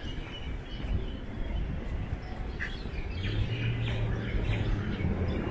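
Small birds chirping over steady outdoor background noise, with a low hum setting in about three seconds in.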